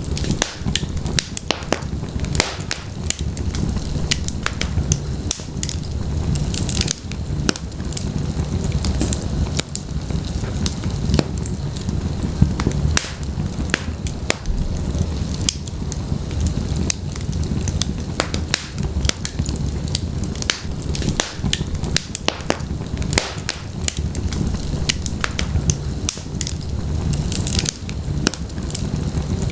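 Wood fire burning in a fireplace: logs crackling and popping in quick irregular snaps over a steady low rumble of the flames.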